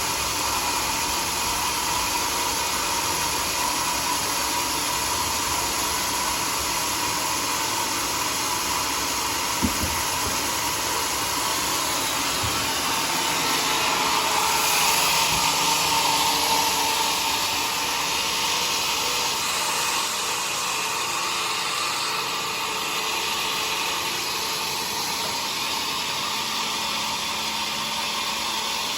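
Sawmill saw running steadily through a teak log, a continuous whirring that swells a little about halfway through, with one short knock about ten seconds in.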